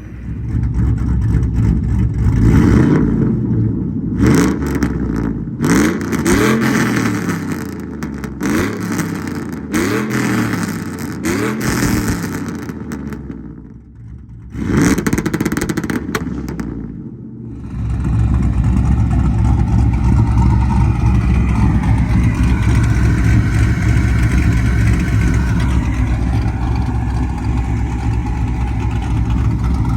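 Pickup truck V8 exhaust being revved about six or seven times, each rev rising and falling in pitch. Then, about 18 seconds in, a steady, loud run that holds an even pitch.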